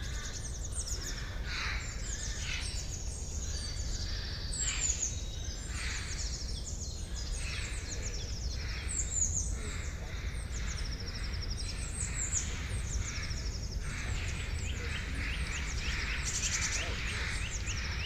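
Forest bird chorus: many songbirds chirping and singing over one another in quick, repeated high notes, over a steady low rumble.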